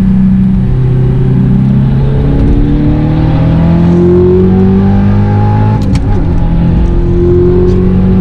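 Audi R8's V8 through a straight-piped Armytrix titanium exhaust, pulling hard at high speed with its pitch climbing steadily. About six seconds in it breaks off for a gearchange, drops in pitch, then climbs again.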